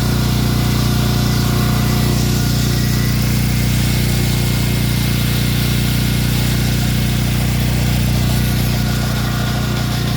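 An engine running steadily at one constant speed, a low, even hum with no revving.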